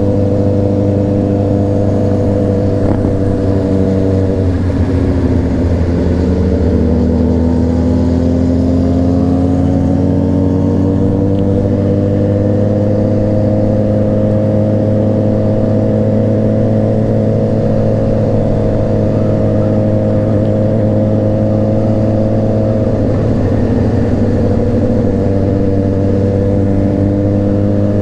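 Honda CBR600RR inline-four motorcycle engine running at cruising revs. The revs drop about four seconds in, climb back up over the next several seconds and hold steady, then ease off again near the end.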